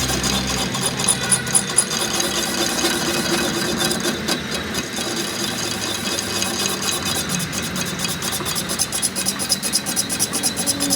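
Steady mechanical noise with a fast, even ticking rattle that grows busier in the second half.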